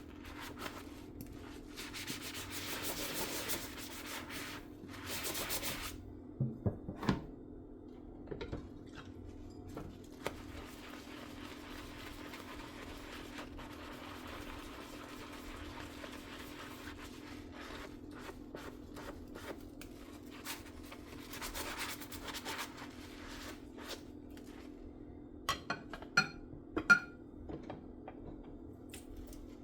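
Dishes being hand-scrubbed with a sponge at a sink: stretches of rubbing scrubbing, broken by a few sharp clinks of dishes knocking together, with a cluster of louder clinks near the end. A steady low hum runs underneath.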